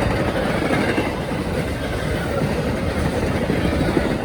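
Train passing through the station without stopping: a steady rumble of wheels on the rails.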